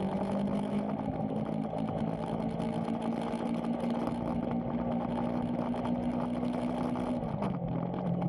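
Motorcycle engine running at a steady cruising speed under wind and road noise. Its note drops in pitch about seven and a half seconds in as the engine slows.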